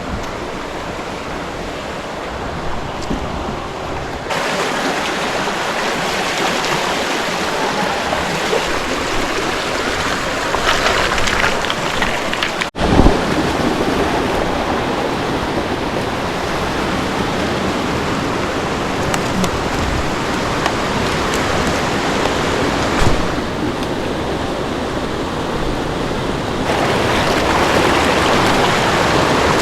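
Rushing creek water, a steady noise that gets louder about four seconds in and again near the end, with a brief dropout and a thump about thirteen seconds in.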